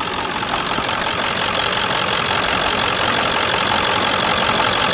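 Ford 7.3 Power Stroke turbo-diesel V8 idling steadily at operating temperature, heard under the open hood; it runs smooth with no blow-by.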